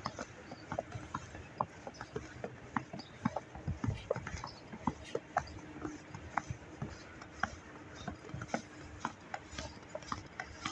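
Footsteps crunching through snow: an uneven run of short, sharp crunches and clicks, several a second.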